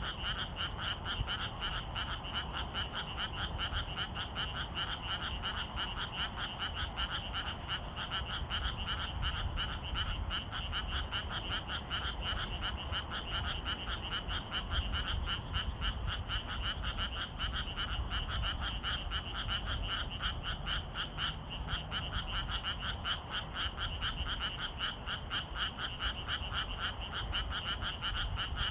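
Chorus of many frogs calling together, a dense, continuous rapid pulsing of croaks that does not let up.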